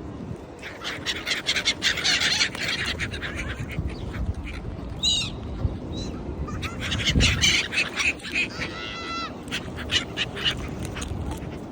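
A flock of gulls calling over one another in harsh, overlapping squawks as they compete for food, busiest in two bursts about a second in and about seven seconds in. Near nine seconds one bird gives a quick run of repeated cries.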